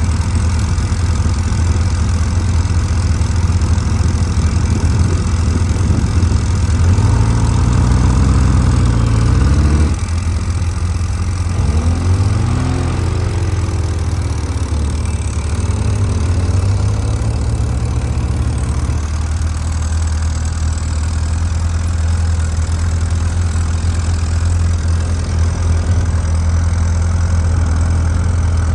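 Motorcycle engine running at low speed through a slow-speed riding course, with a steady low rumble. It revs up and down a few times between about a quarter and halfway through.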